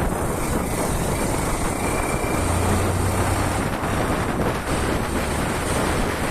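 Small motorcycle engine running at riding speed, mixed with heavy wind rush. A deeper low hum swells for about a second and a half around the middle.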